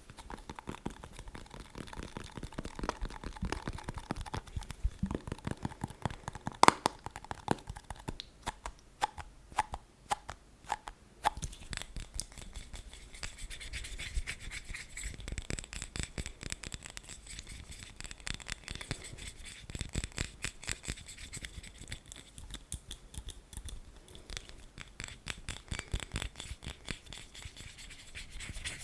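Fast ASMR tapping and scratching on an object: a dense run of rapid taps and scrapes, with one sharp, louder tap about seven seconds in.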